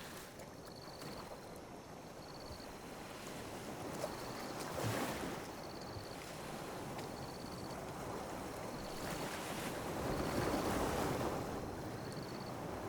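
Small ocean waves lapping and washing ashore, with swells about five seconds in and again around ten to eleven seconds. A faint high chirp repeats about once a second.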